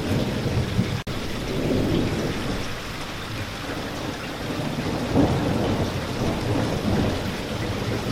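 Steady rain with a continuous low rumble of thunder that swells about five seconds in. The sound drops out for an instant about a second in.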